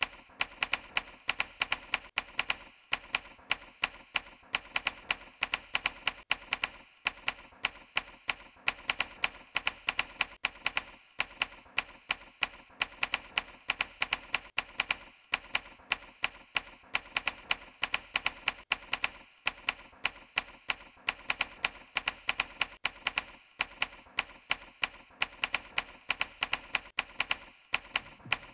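Typing: a quick, irregular run of key clicks, about four or five a second, with a brief pause every few seconds.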